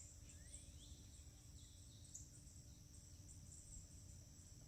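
Near silence with a faint, steady, high-pitched insect chorus and one faint rising chirp about half a second in.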